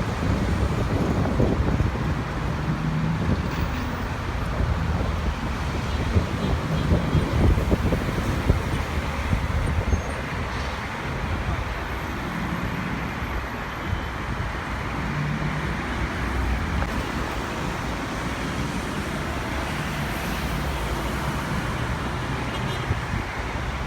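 A steady, rumbling engine roar, with wind gusting on the microphone through the first third.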